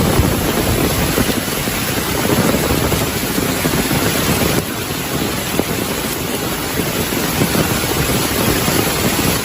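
Heavy rain falling steadily, a dense hiss over a rumbling low end. It dips slightly in level about halfway through.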